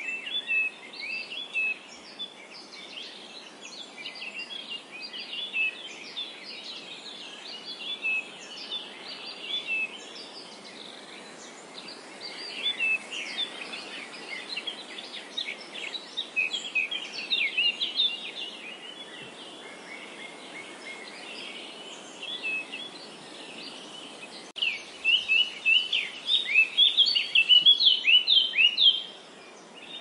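Small birds chirping in many short, quick calls over a steady hiss of wind through meadow grass; the chirping comes in a dense, loud run about four seconds before the end.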